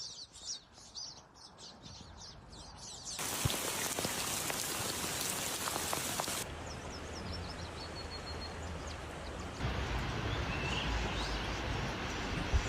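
Outdoor nature sounds cut together. It opens with birds chirping rapidly. About three seconds in it cuts to a steady watery hiss like rain. Further bird calls then sound over a low rumble.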